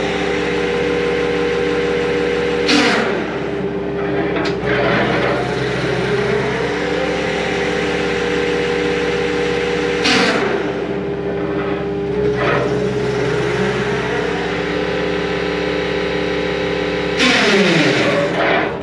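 CAT 259D compact track loader running with an MTL XC7T hydraulic brush cutter spinning: a steady hum whose pitch sags three times, about 3, 10 and 17 seconds in, each sag with a short burst of noise.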